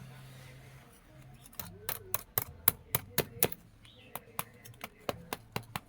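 Hammer blows on steel on an anvil while forging a knife: a fast run of sharp ringing metallic strikes, about three to four a second, starting about a second and a half in.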